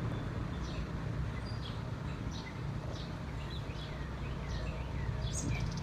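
Wild birds chirping in short, scattered calls over a steady low background noise.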